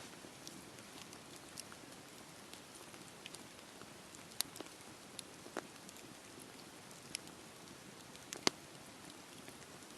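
Wood fire burning in a fireplace: a steady soft hiss with scattered crackles and pops, the sharpest about four and a half seconds in and again near eight and a half seconds.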